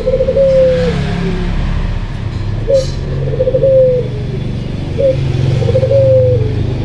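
A dove cooing: a low phrase of a short rising note, a quick run of pulses and a long falling coo, repeated three times about every two seconds. A steady low rumble runs beneath it.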